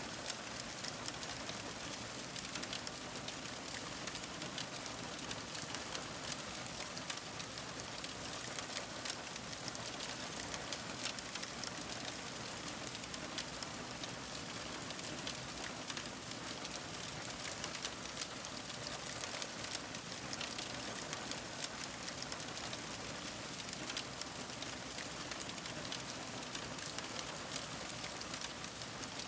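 Fire crackling steadily: a constant hiss with many small, quick pops and crackles scattered throughout.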